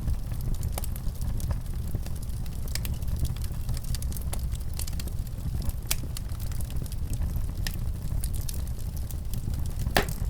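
Wood fire burning in a fireplace: a steady low rumble with irregular sharp crackles and pops, the loudest pop about ten seconds in.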